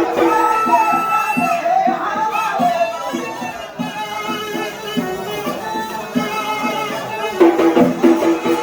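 Yemeni mizmar reed pipe playing a wavering, ornamented melody over an even drum beat. Near the end it settles on a loud held note while the drum keeps pulsing under it.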